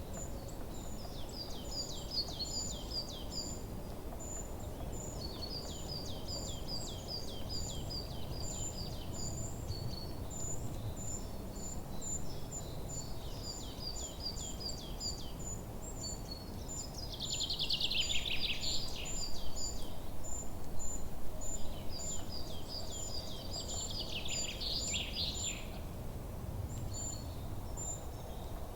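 Forest birds chirping and trilling in quick repeated phrases over a steady low background rumble, with two louder bursts of song in the second half.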